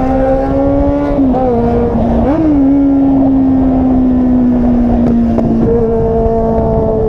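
Volkswagen Jetta's engine and exhaust running at fairly steady revs under way, over a constant low road rumble. The pitch dips briefly about a second in, rises sharply for a moment at about two and a half seconds, then steps up again near the end.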